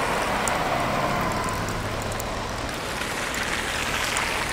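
Steady road traffic noise: vehicle engines running under an even hiss, with faint scattered clicks.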